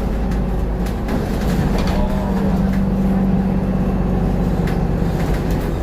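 Bus running, heard from inside: a steady low engine and road rumble with a steady hum.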